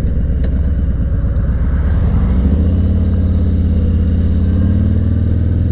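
Vehicle engine running while driving, with a steady low hum; its pitch rises about two seconds in as it speeds up, then holds steady.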